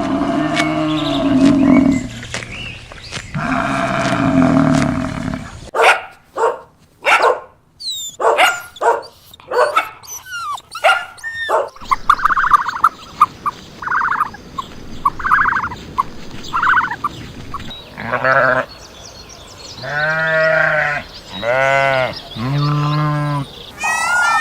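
Farm animals calling across a run of short clips, mostly long wavering bleats typical of goats or sheep. Between them come a stretch of quick clicks and short sharp calls, and a row of short high calls about a second apart.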